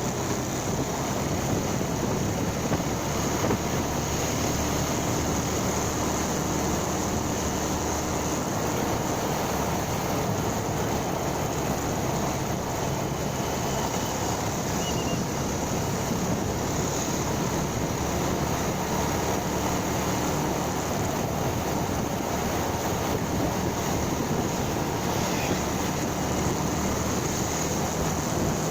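Motorcycle engine running steadily under way, mixed with a constant rush of wind on the microphone and no change in speed or gear.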